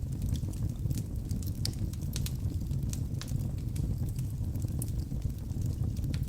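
Wood logs burning in a fireplace: a steady low rumble of the flames with sharp crackles and pops at irregular moments.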